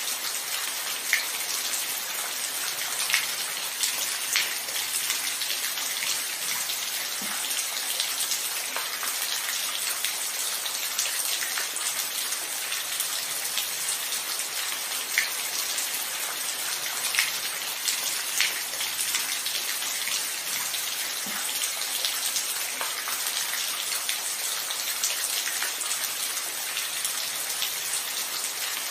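Steady rain falling, a dense even patter with individual drops ticking out sharply here and there.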